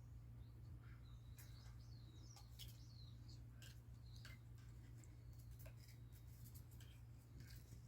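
Faint, brief high bird chirps and scattered light clicks over a low steady hum.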